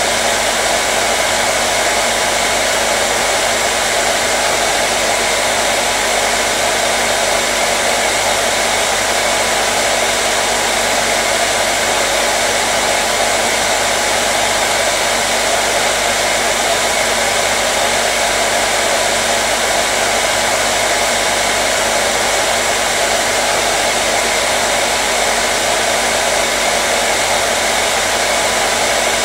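Electric hair dryer running continuously: a steady, unchanging rush of fan and airflow noise with a faint motor hum.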